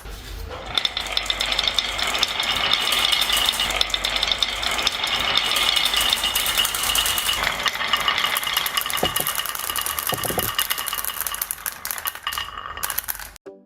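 Many marbles clattering and rolling along a marble run track: a dense, continuous rattle of small clicks. It cuts off suddenly near the end.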